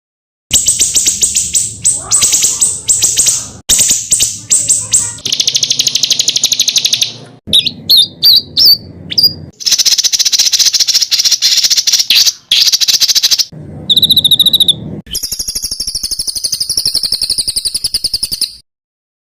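Songbird song for tutoring caged birds: rapid, dense, harsh trills and rattling bursts ('tembakan rapat dan kasar'), in short phrases that start and stop abruptly, with a brief whistled phrase about halfway through.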